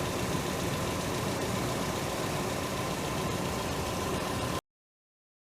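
Toyota Corolla KE72's engine idling steadily after a rev, then the sound cuts off suddenly about four and a half seconds in.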